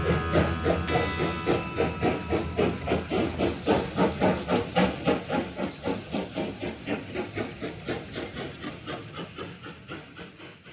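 A train-like rhythm of hissing chuffs, about five a second, imitating a steam locomotive and fading gradually away. The band's last held notes die out in the first two seconds.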